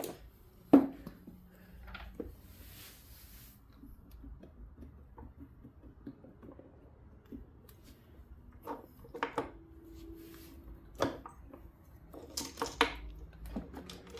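Scattered metallic clicks and clinks of plier-type tools working a snap ring off a motorcycle clutch, with one sharp click about a second in and a cluster of clinks near the end.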